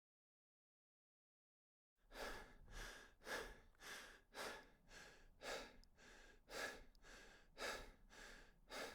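Rhythmic heavy breathing, about two breaths a second, starting about two seconds in after dead silence.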